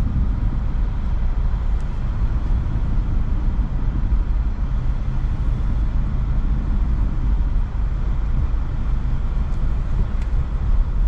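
Subaru car driving on a snow-covered road, heard from inside the cabin: a steady low rumble of engine and tyre noise.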